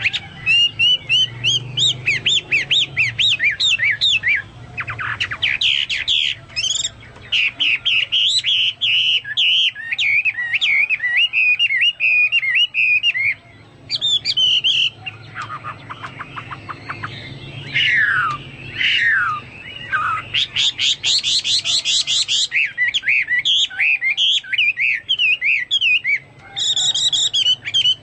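Chinese hwamei singing a long, varied song of quick trills, repeated notes and slurred whistles, with a few short pauses, in a style sounding like cucak Papua or cucak mas song.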